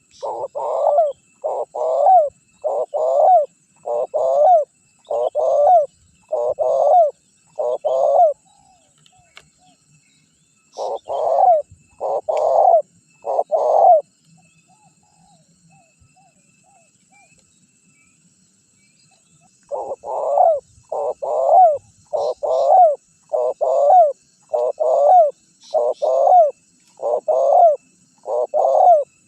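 Spotted dove (tekukur) cooing in a strong, repeated song used as a lure call to make wild doves answer. It gives a run of about eight coo phrases, pauses, gives three more, then after a longer pause a run of about nine. Faint chirps of other birds sound in the background.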